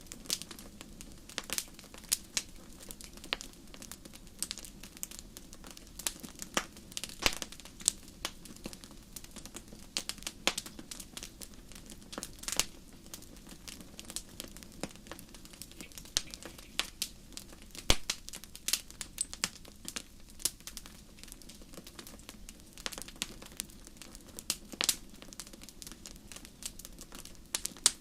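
Wood fire crackling in a fireplace: irregular sharp pops and snaps, several a second and uneven in loudness, over a steady low rumble of burning.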